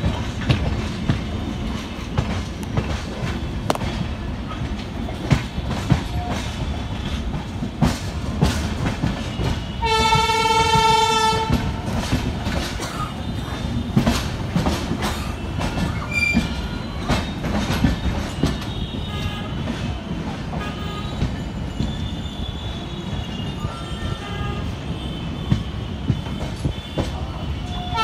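Train running on the rails, heard from inside a moving coach: a steady rumble of wheels with irregular clicks over rail joints. A train horn sounds once for about a second and a half around ten seconds in, and another starts just at the end.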